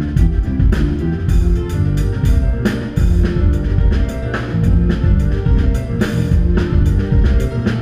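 Instrumental band music: keyboard, electric guitar, bass guitar and drum kit playing together with a steady beat.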